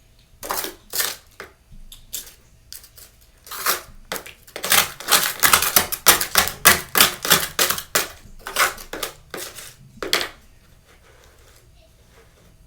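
Freezer frost crunching crisply, a rapid run of sharp crackles that thickens into dense crunching in the middle and stops about ten seconds in.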